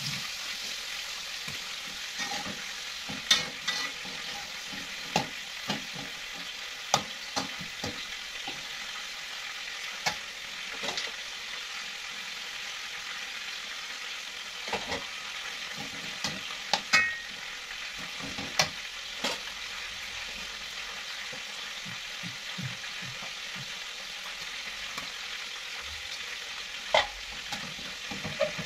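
Food sizzling steadily in hot oil in a wok, with irregular sharp clinks and scrapes of a spatula against the pan every few seconds.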